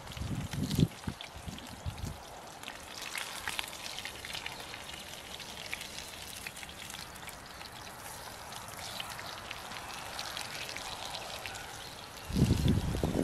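Rain falling in scattered drops. Low gusts of wind on the microphone come in the first two seconds and again near the end.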